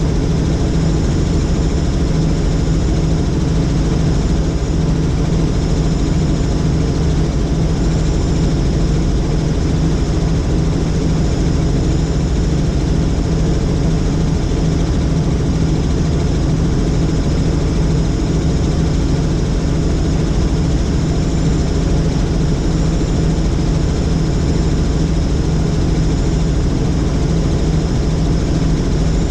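Helicopter in steady flight: continuous engine and rotor noise, loud and unchanging.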